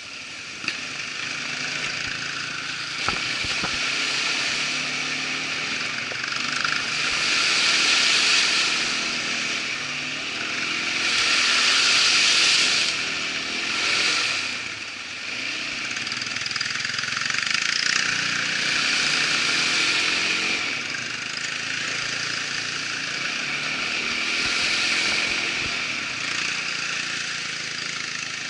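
Irbis ATV 200 quad bike's engine running under way, its revs and noise swelling and easing every few seconds, with a few light knocks near the start.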